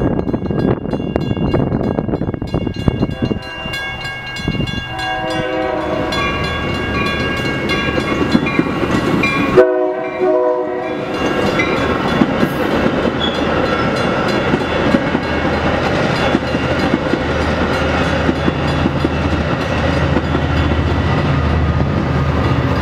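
Mechanical railroad crossing bell ringing rapidly while a train horn blows, twice: about five seconds in and again about ten seconds in. After that a Metra bilevel commuter train rolls through the crossing, its wheels clattering over the rails, with the bell still ringing.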